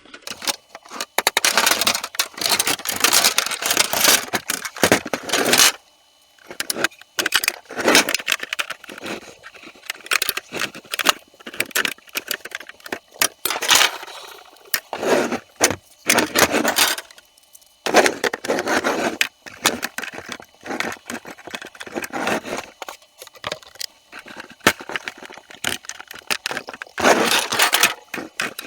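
Small plastic building bricks and parts being handled, rattled and snapped together in a quick, irregular run of clicks and clatters, with a few brief pauses.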